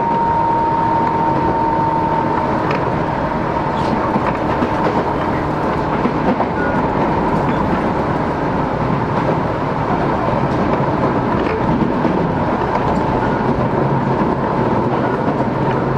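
Running sound inside a Tobu 10030 series electric train car under way: a steady high whine from its chopper control, which dips slightly in pitch in the first two seconds and then holds, over the steady rumble of wheels on rail with a few faint clicks.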